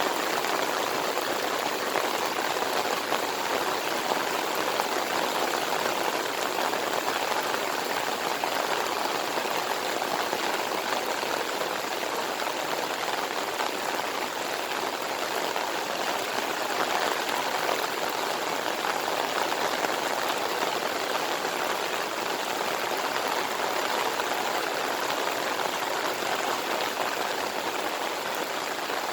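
Heavy monsoon rain pouring down in a steady, unbroken downpour.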